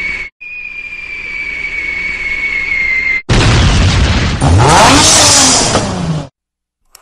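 Vehicle sound effect: a steady high whine over a hiss for about three seconds, then a loud rush of motor-vehicle engine noise whose pitch rises and then falls, cutting off abruptly about a second before the end.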